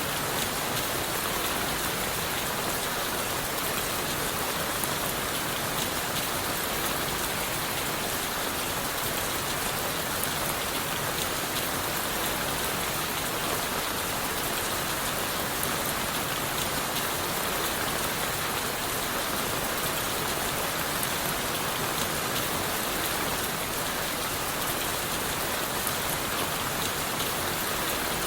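Steady rain falling on leaves, wood and the forest floor: a dense, even hiss of drops with fine patter, unchanging throughout.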